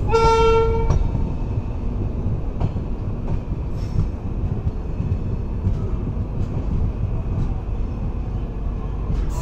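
Passenger train running, heard from on board: a steady low rumble of wheels on rails with occasional light clacks. A short steady tone sounds during the first second.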